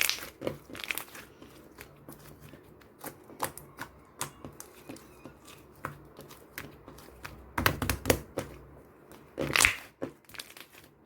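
Slime being squished, pulled and pressed by hand, giving irregular crackling and popping clicks, with louder bursts of crackles near the start and about eight and nine and a half seconds in.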